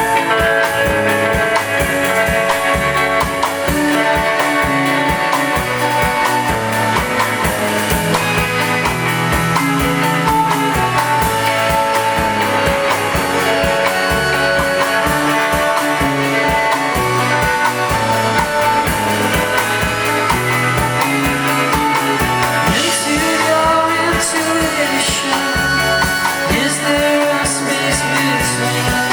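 Live rock band playing a song, with a steady drum beat under guitars. Cymbal crashes come in over the last few seconds.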